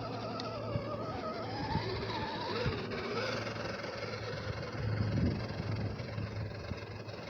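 The electric motor and gear drivetrain of an Axial SCX10 II RC crawler whining, its pitch rising and falling as the throttle is worked.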